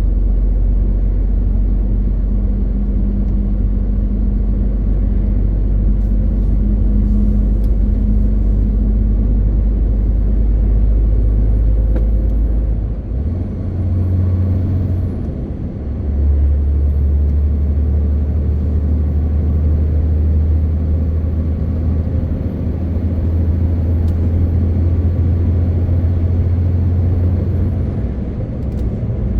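MAN TGX 18.520 truck's straight-six diesel engine running under way, a steady low drone. About halfway it drops away for a few seconds and comes back at a higher pitch.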